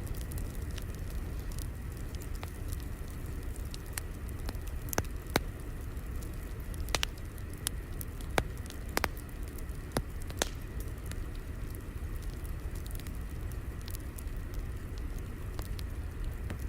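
Crackling fire ambience: a steady low rumble of burning with scattered sharp pops and snaps, a few louder ones about five to ten seconds in.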